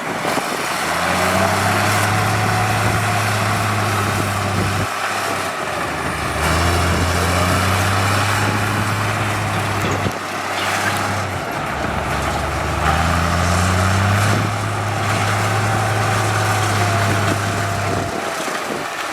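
Heavy diesel construction machinery running, a steady low engine drone over mechanical noise. It changes abruptly a few times.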